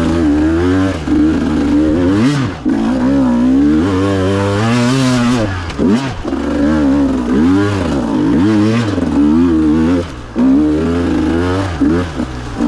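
Small two-stroke enduro dirt bike engine revving up and down over and over under throttle blips, dropping off briefly a few times as the throttle is shut, with some clatter.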